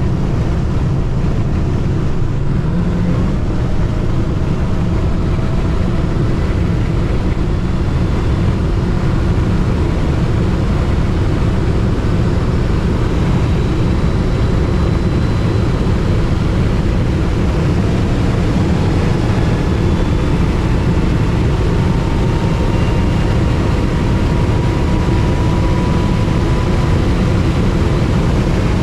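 Dodge Hellcat Redeye driving at a steady pace: a loud, even low rumble of its supercharged V8 and the road, with a faint thin whine that slowly climbs in pitch in the second half.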